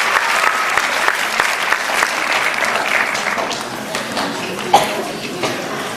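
Audience applauding, with a few voices in the crowd; the clapping thins out toward the end. There is one sharp knock near the end.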